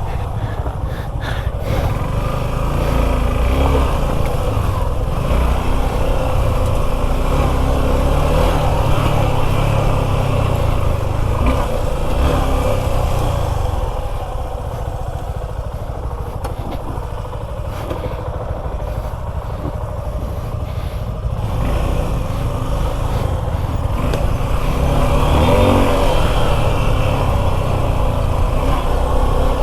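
Suzuki V-Strom 250 SX motorcycle's single-cylinder engine running as the bike is ridden. It eases off for a stretch in the middle and picks up again near the end.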